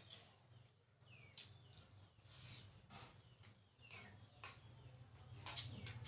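Quiet chewing: scattered soft clicks and smacks of eating, over a low steady hum.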